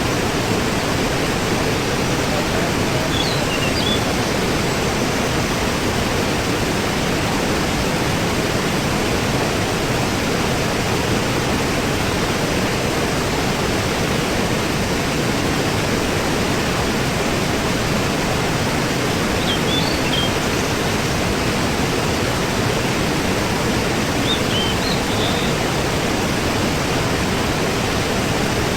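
Waterfall rushing in a steady, unbroken roar of falling water. A few faint, brief high chirps come through it three times.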